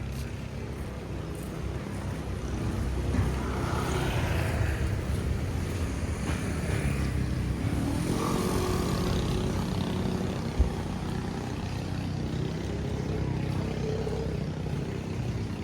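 Motor vehicle engines running and passing by, one passing with a falling pitch a few seconds in. A single brief sharp knock about ten seconds in.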